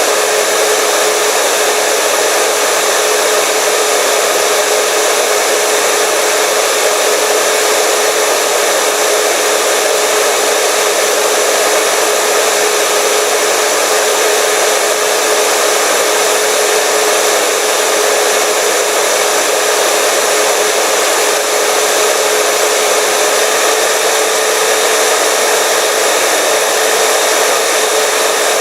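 Hair dryer running steadily on one setting: an even rush of air with a constant motor hum.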